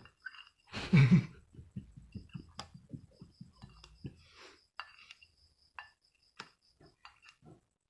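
Knife chopping octopus: a heavy thud about a second in, then a quick run of short knocks, about five a second, thinning to scattered knocks and clicks.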